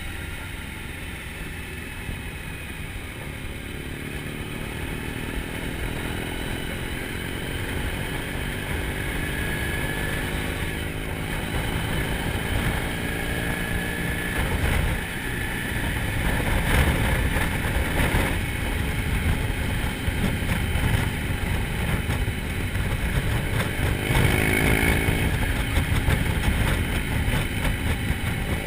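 Motorcycle engine running, its pitch rising and falling with speed and growing louder toward the end.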